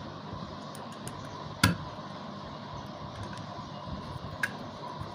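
Small parts of a vacuum cleaner motor being fitted by hand during reassembly, most likely the carbon brushes going in: a sharp click about a second and a half in, a lighter click near the end and a few faint ticks, over a steady hiss.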